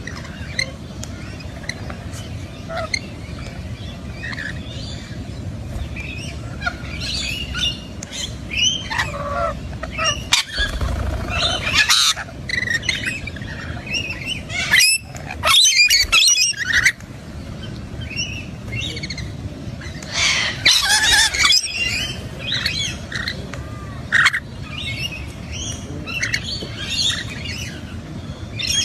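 Parrots calling, many short overlapping calls throughout, with several louder bursts in the middle.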